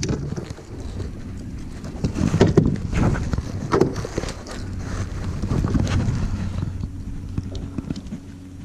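Wind rumbling on the microphone, with scattered knocks and clicks of handling on a kayak.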